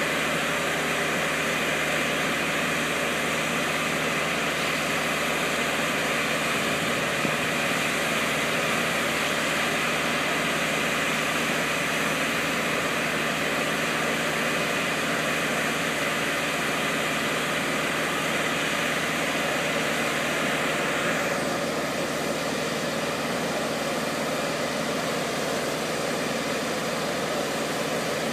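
Boat gantry's engine running steadily under load. About three-quarters of the way through, its higher whine drops back and the sound becomes lower.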